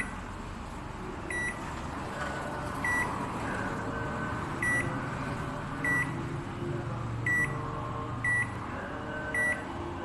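A short, high electronic beep repeated about eight times at uneven intervals of roughly one to one and a half seconds, over a steady background hiss.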